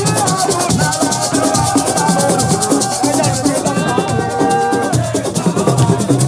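Group singing with long held notes over fast shaker and drum percussion.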